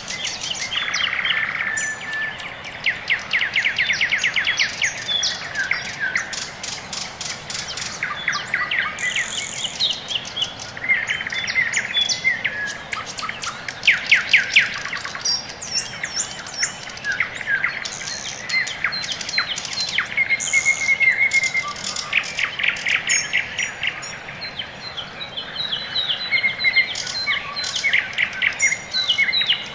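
Songbirds singing: many quick high chirps and fast trills, overlapping and repeating.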